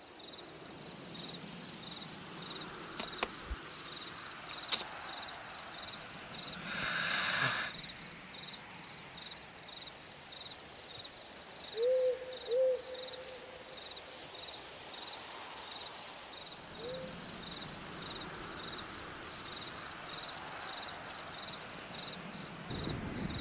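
Night-time nature ambience: an insect, like a cricket, chirps steadily at a high pitch, about two pulses a second. A few short owl-like hoots come about halfway through, two close together and one more a few seconds later.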